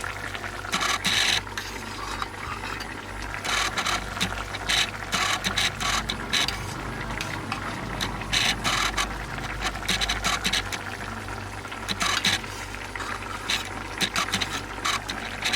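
A metal utensil scraping and rattling against a cooking pot in irregular clusters of short strokes while the curry is stirred, over a steady low hum.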